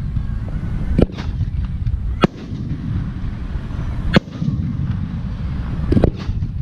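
Fireworks aerial shells going off: sharp bangs about a second in, a little after two seconds, about four seconds in, and a quick double near six seconds, over a continuous low rumble of more distant bursts.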